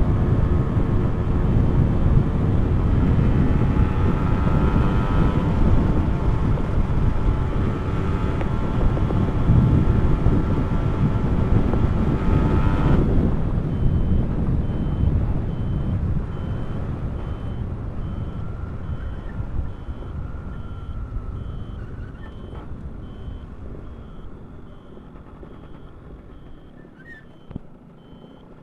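A two-stroke motorcycle engine running under wind noise, which dies away after about halfway as the bike slows. A high, evenly pulsing beep repeats through the second half.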